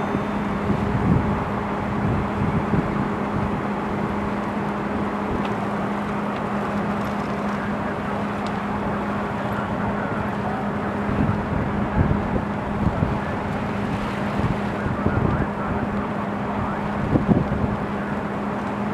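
Steady engine hum with a constant low drone, and gusts of wind buffeting the microphone.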